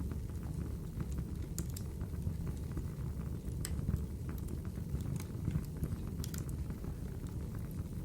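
Wood fire burning in a fireplace: a steady low rumble of the flames with a sharp crackle or pop every second or two.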